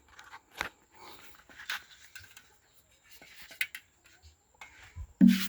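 Bait being rubbed and scraped around the inside of a wooden Langstroth beehive box to make it smell like an old colony's home, in short irregular strokes; near the end a louder, quicker run of strokes begins.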